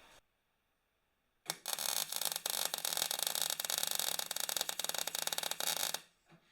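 A workshop tool running with a rapid, dense clicking rattle for about four and a half seconds, starting with a sharp click and cutting off suddenly.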